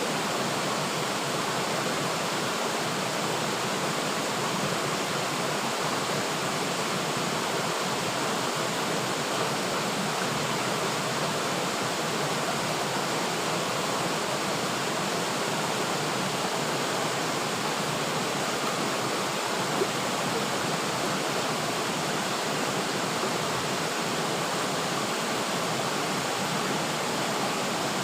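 River water flowing steadily, a continuous even rush with no change over the whole stretch.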